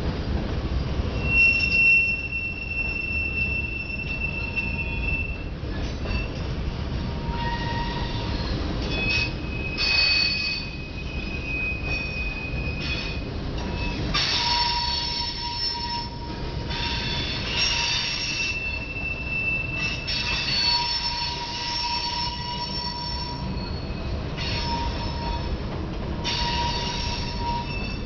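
Freight cars rolling past, their wheels squealing in long high-pitched tones that come and go over a steady low rumble.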